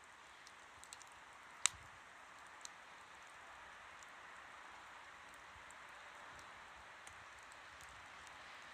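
Wood campfire burning with a faint steady hiss and scattered sharp crackles, the loudest pop coming about a second and a half in.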